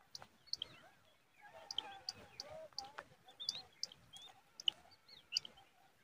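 Birds chirping: short, sharp, high chirps repeated about every half second, over softer twittering calls.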